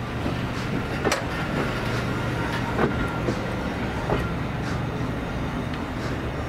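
Heritage train moving slowly, with a steady low diesel engine drone. A few sharp metallic clanks come through, about one, three and four seconds in.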